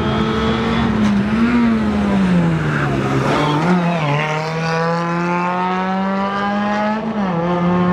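Rally car engine running hard on a closed stage. The engine pitch dips and wavers in the first three seconds, then climbs slowly under acceleration from about four seconds in, falls sharply near seven seconds and starts climbing again.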